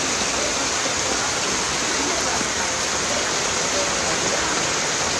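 Floodwater rushing steadily at an overflowing bridge, a continuous even wash of moving water.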